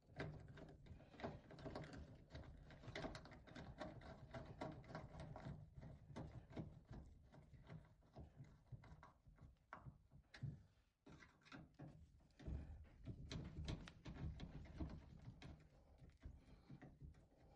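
Faint clicks, taps and knocks of hands and tools working on a washing machine's hot water inlet solenoid valve and its fittings, over a low steady hum.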